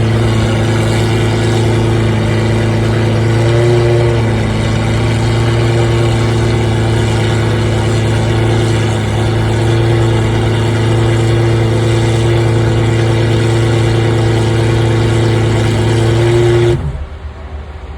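A car engine running loud at a steady speed, then stopping abruptly near the end.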